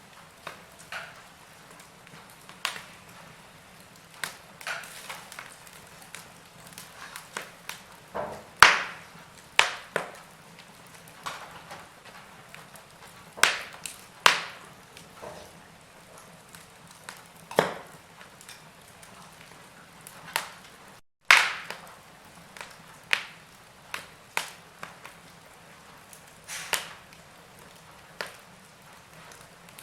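Log fire crackling in a fireplace: irregular sharp pops and snaps over a faint steady hiss. It cuts out for a split second about two-thirds of the way through.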